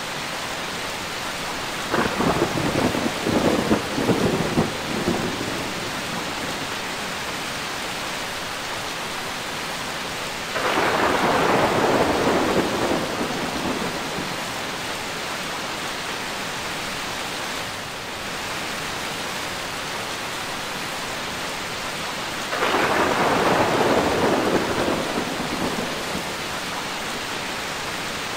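Steady heavy rain with thunder. There are three peals: a crackling one about two seconds in, then two longer rumbling rolls about ten and twenty-two seconds in.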